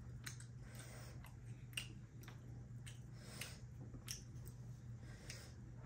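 Faint chewing and wet mouth clicks of people eating fried fish, with small scattered ticks over a steady low hum.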